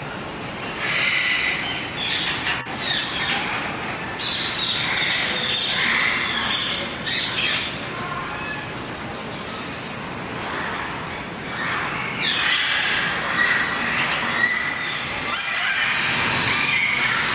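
Many birds squawking and chirping at once, their calls overlapping without a break and growing busier near the end.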